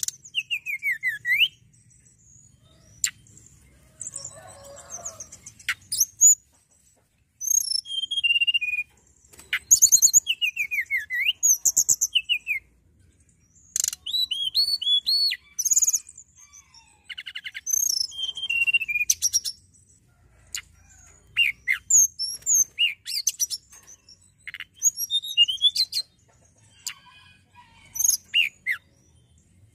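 Tledekan gunung, a blue flycatcher, singing a long, varied song. It runs as quick high-pitched whistled phrases, descending slurs and rapid trills, with short pauses between the phrases.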